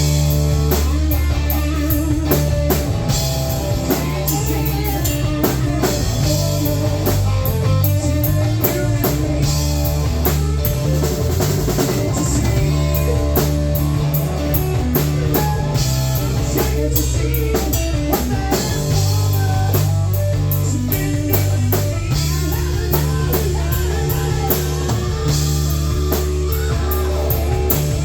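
Live rock band playing an instrumental passage: guitar over a steady drum kit beat, with no singing.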